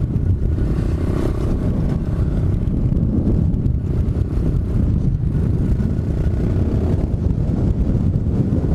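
Strong wind buffeting the microphone, a steady low rumble, with a 125cc pit bike's engine running underneath while riding.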